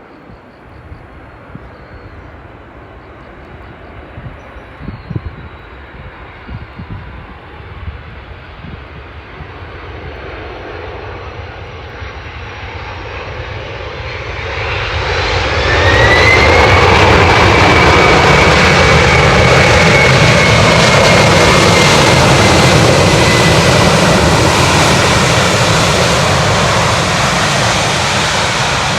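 Boeing 767-300 twin jet engines growing steadily louder as the airliner comes in to land. About halfway through, the sound jumps suddenly to a loud, full noise with a rising then slowly falling whine: the engines spooling up in reverse thrust to slow the aircraft on the runway. The noise eases slightly near the end.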